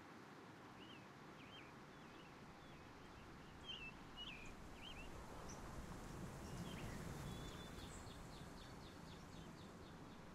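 Faint bird chirps over steady low background noise: a scattered string of short high notes, then a quick run of repeated notes near the end.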